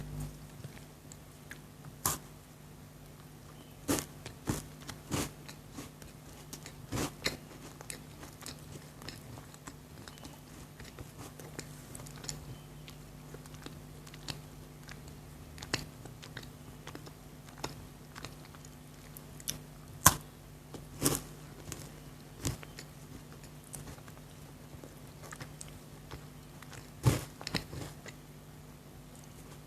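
Close-miked chewing of chocolate, with irregular sharp crunches as pieces are bitten, the loudest about two-thirds of the way in and near the end. A faint steady low hum runs underneath.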